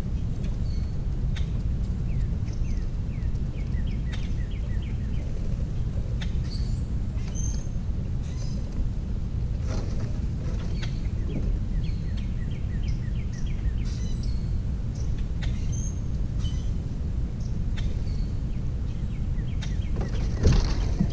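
Small birds calling over a steady low rumble: two runs of quick repeated chirps and scattered short high chirps, with a few sharp clicks, the loudest near the end.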